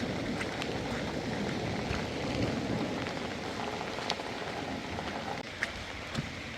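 Steady rain falling, with a few separate sharp drop strikes on a hard surface standing out from it.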